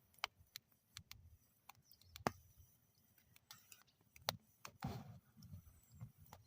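Campfire in a metal fire bowl crackling: sparse, irregular sharp snaps and pops. The loudest comes about two seconds in, with a cluster of pops around the fifth second.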